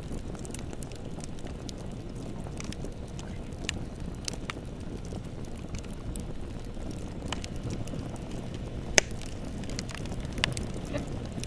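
Wood fire crackling: irregular sharp pops and snaps over a low steady rumble, with one loud pop about nine seconds in.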